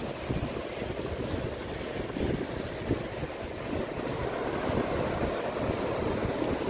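Pacific ocean surf washing on the shore, with wind buffeting the microphone in uneven low gusts.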